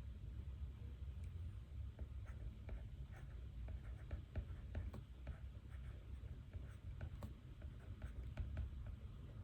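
Pen writing on paper: a run of small, irregular scratches and ticks over a steady low hum.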